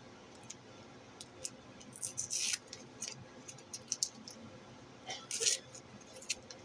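Packaging being handled close by: scattered small clicks and two louder crinkling rustles, about two seconds in and about five seconds in.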